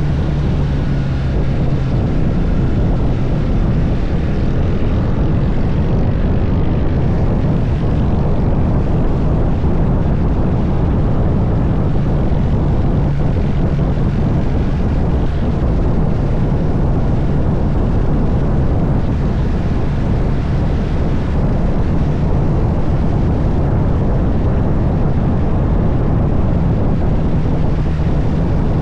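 Motorcycle engine running at a steady cruise, a constant low drone under a steady rush of wind and road noise.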